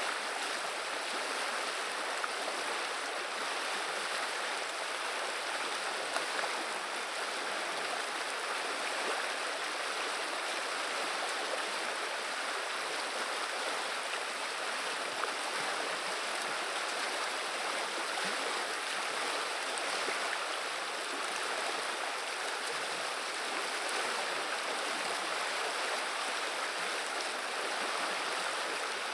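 River water running and burbling over the riverbed, a steady rushing flow.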